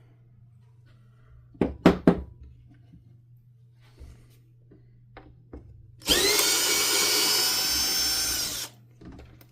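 Power drill-driver running for about two and a half seconds, spinning up with a rising whine and then holding steady, used to take apart a vacuum cleaner. About two seconds in there are a few sharp clinks of small metal parts.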